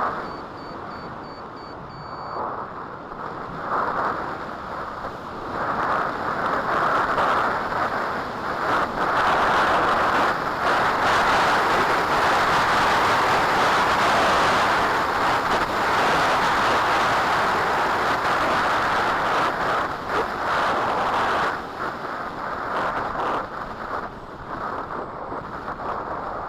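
Strong gusting wind buffeting the microphone, loudest through the middle and easing near the end. A faint series of short, high beeps sounds in the first two seconds.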